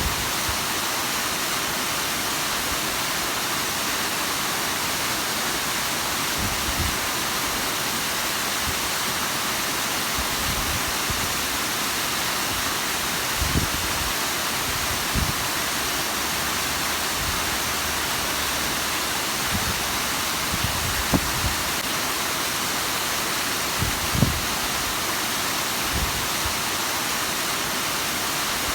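Bigăr waterfall's water falling in a steady, even rush, with a few brief low thumps scattered through it.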